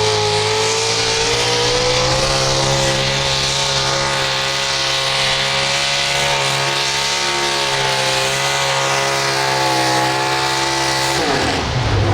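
A pulling tractor or truck engine at full throttle under load, holding high, nearly steady revs down the track. About eleven seconds in, the revs drop sharply as the throttle is let off.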